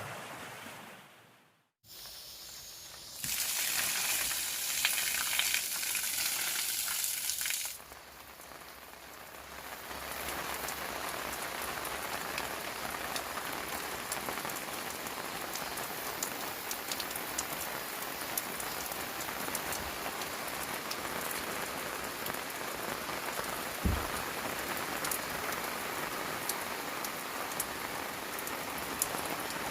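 Steady rain falling, with many small drop ticks on a surface. A louder stretch of rain noise runs from about three to eight seconds in, after a brief drop to near silence at the start.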